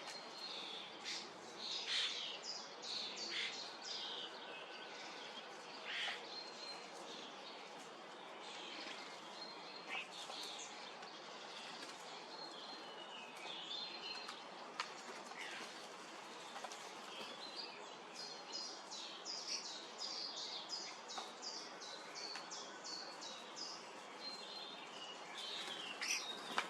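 Small birds, common starlings among them, chirping and calling over faint background noise, with a run of quick repeated notes about two-thirds of the way through.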